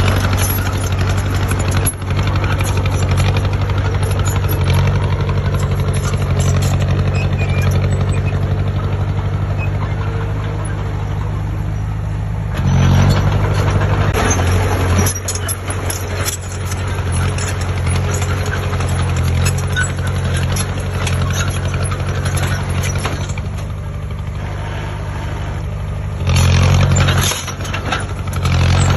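Heavy diesel engine of construction machinery running steadily under a low hum, rising louder twice, about halfway through and again near the end, as it works harder.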